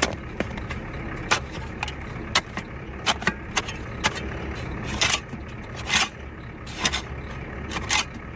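Snow being dug out by hand from under a truck tyre: irregular crunching scrapes, a dozen or so, over a steady low rumble.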